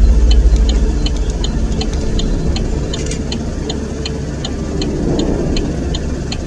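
A motor vehicle's engine running with a deep rumble that is loudest in the first second, over a regular ticking of about three ticks a second.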